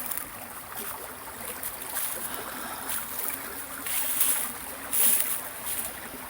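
Steady rush of a river flowing close by, with brief louder hissing surges about four and five seconds in.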